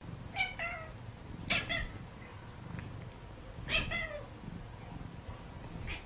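A cat giving several short meows: a quick pair near the start, then one at about a second and a half and another near four seconds in.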